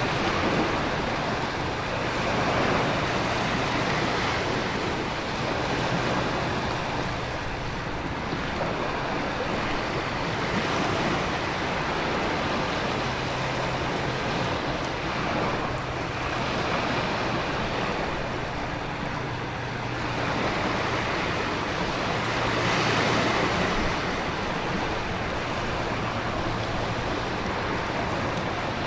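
Storm ambience: a steady wash of heavy rain and wind with ocean surf swelling and ebbing every few seconds.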